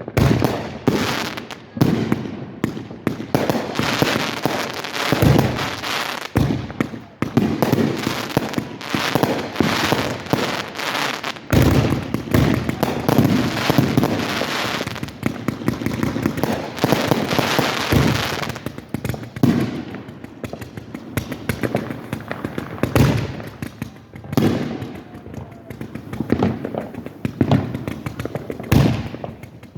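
Aerial fireworks bursting in quick succession, booms mixed with crackling; a dense barrage through the first half gives way to more spaced-out bangs about two thirds of the way in.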